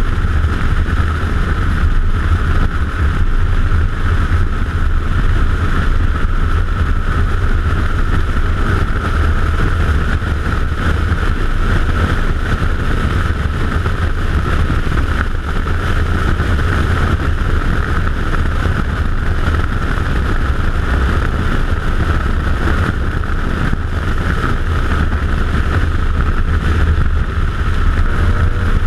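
Audi S4 at speed on a race track, heard from the car: engine and wind and road noise blend into a loud, steady rumble with a hiss above it and no clear rise or fall in engine pitch.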